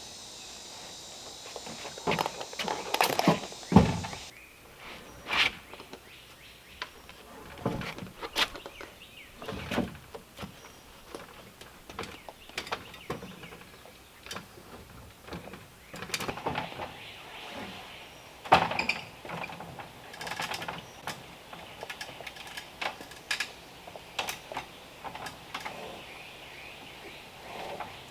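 Irregular knocks and taps, some sharp and some duller, with a steady high hiss that stops about four seconds in.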